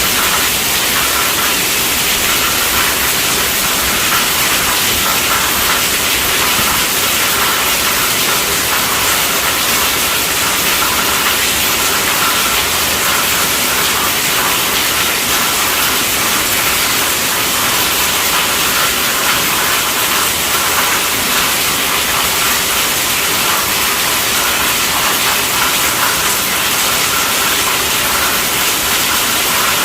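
Steady rainfall, a loud, even hiss that does not change.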